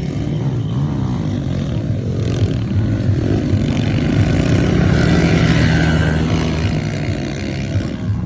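Motocross bike engines running hard and revving, their pitch rising and falling as the riders accelerate and back off.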